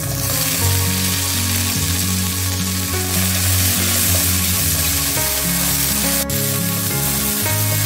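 Water spinach stems sizzling as they hit hot oil and garlic in a wok over high heat, stir-fried with chopsticks. The loud frying hiss starts suddenly as the stems go in and keeps going.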